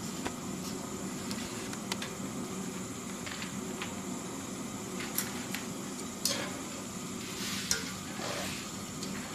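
A steady hiss with a low hum under it, broken by scattered light clicks and knocks, with brief swishing sounds about six and eight seconds in.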